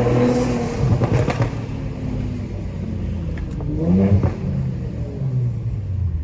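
Infiniti Q50's 3.0 twin-turbo V6 running under way, heard from inside the cabin with road noise, its pitch sagging and then rising in a short rev about four seconds in.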